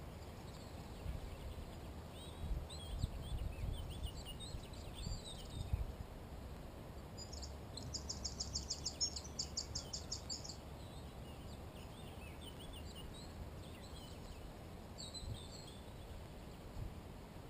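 Wild songbirds calling and singing in short high chirps, with one bird giving a fast, even trill of about five notes a second that lasts some three seconds. A low rumble runs underneath, surging a few times early on.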